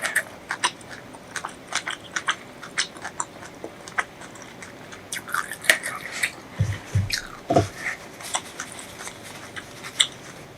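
Close-miked eating: chewing and biting with many short, sharp wet mouth clicks, and a few low thumps about two-thirds of the way through.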